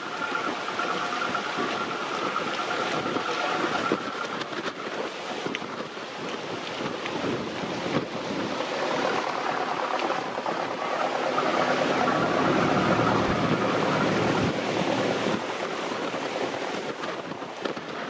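Wind gusting hard on the microphone, with a motor boat's engine running under it, most noticeable near the start and again in the middle.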